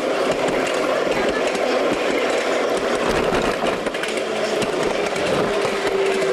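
A 5-inch gauge ride-on miniature train running along its track, with a steady clatter of small wheels over the rails.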